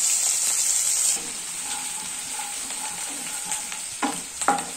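Chopped garlic and green chillies sizzling in hot oil in a frying pan, the sizzle falling off a little over a second in. Near the end a spatula scrapes and knocks against the pan a couple of times as it stirs.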